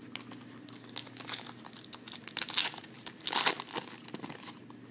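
Plastic foil wrapper of a trading card pack being torn open and crinkled: an irregular run of crackles, with two louder bursts a little past halfway.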